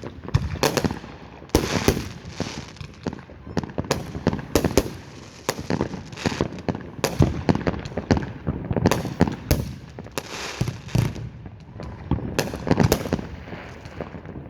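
Fireworks going off in many sharp bangs and crackles, irregular and often in quick clusters, with several bursts overlapping.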